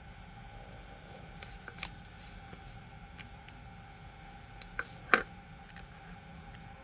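Small hard parts and hand tools being handled during the repair of a rotary hammer: a handful of sharp clicks and taps, the loudest a ringing clink about five seconds in, over a faint steady hum.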